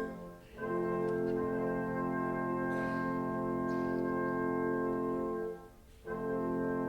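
Symphony orchestra with prominent brass playing long held chords, broken by a short gap about half a second in and another near the end.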